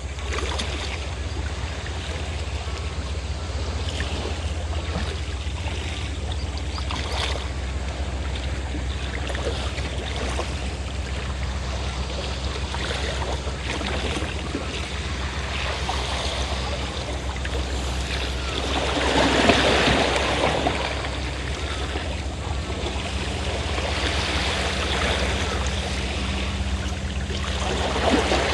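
A fishing boat's engine runs with a steady low hum while sea waves wash on the shore, one larger wave breaking about two-thirds of the way through and another near the end.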